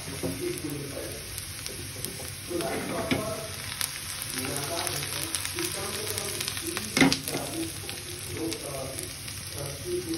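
Chopped onion and vegetable pieces frying in hot oil in a pan: a steady sizzle with fine crackling. A single sharp knock about seven seconds in.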